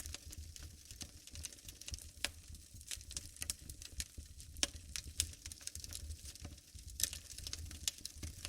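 Wood fire burning in a fireplace, crackling with irregular sharp pops over a soft low rumble of the flames.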